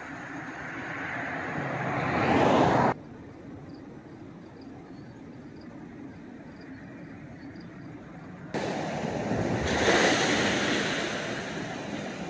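Freight cars rolling past on the rails, a rushing noise with wind on the microphone. It builds, drops off abruptly about three seconds in, jumps back up about eight and a half seconds in and then eases off.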